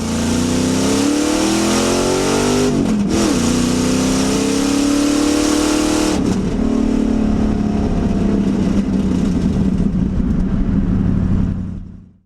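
Ford 302 V8 of a Fox-body Mustang accelerating hard, loud: the engine note climbs, drops sharply at a gear change about 3 s in, climbs again, drops at a second shift about 6 s in, then holds steady before fading out near the end.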